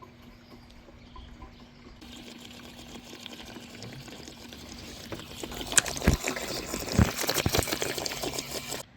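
Gasoline being poured from a gas can into a Cub Cadet XT1 riding mower's fuel tank. The pour grows louder over several seconds, with clattering knocks from handling the can in the last few seconds, and cuts off suddenly near the end.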